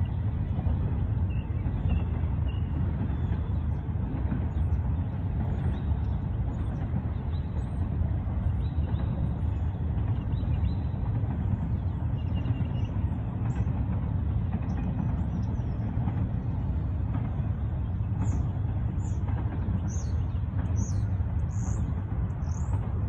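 Double-stack freight train cars rolling past with a steady low rumble, and birds chirping faintly, more of them near the end.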